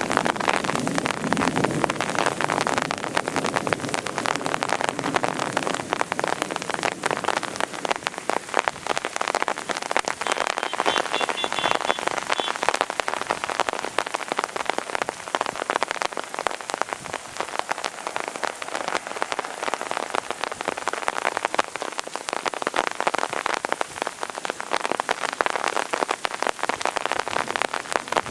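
Rain falling steadily, a dense patter of countless drops.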